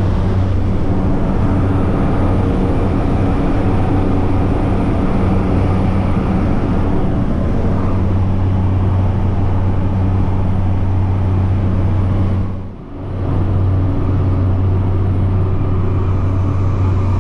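Skydiving jump plane's engine and propeller running steadily, heard inside the cabin during the climb, a low steady hum. The level drops briefly about thirteen seconds in.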